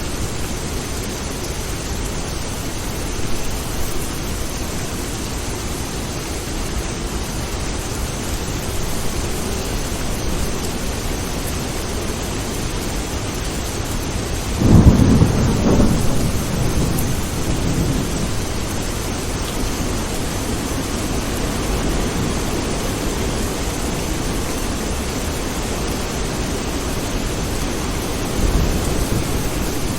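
Steady rain falling during a thunderstorm. About halfway through, a loud clap of thunder breaks in and rumbles away over a few seconds, with fainter rumbles of thunder near the start and near the end.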